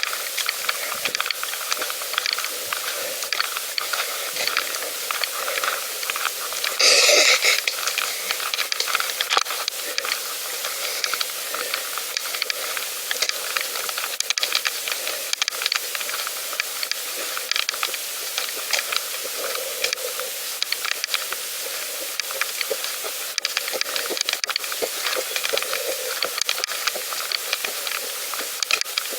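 Steady hiss with many small crackles as a pedal bicycle is ridden along, with a louder rush of hiss about seven seconds in.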